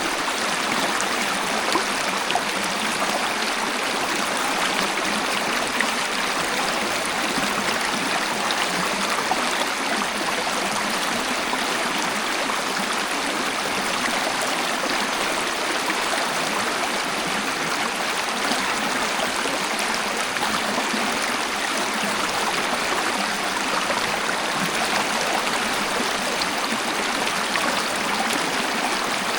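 Waterfall: water falling and flowing in a steady, even rush with no deep rumble.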